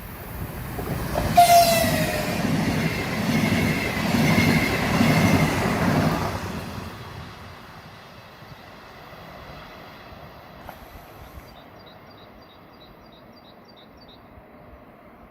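A train passing at speed with a rushing, rolling noise that swells about a second in and dies away after about six seconds, the horn sounding briefly and dropping slightly in pitch as it goes by. Later a small bird chirps repeatedly, about three times a second.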